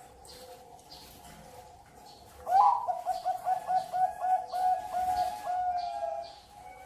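Zebra dove (perkutut) singing. About two and a half seconds in comes a sharp rising opening note, then a quick, even run of about a dozen coos lasting some four seconds. Fainter cooing from other doves and small high chirps sound behind it.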